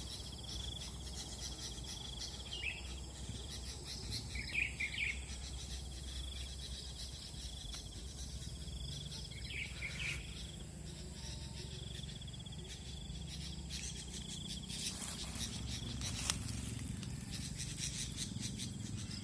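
A steady high insect trill that stops and restarts several times, with short bubbly calls of sooty-headed bulbuls about 3, 5 and 10 seconds in. There is a sharp click about 16 seconds in.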